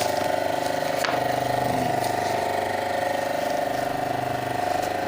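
Hydraulic punch press's pump and motor running with a steady whining hum, with one sharp click about a second in.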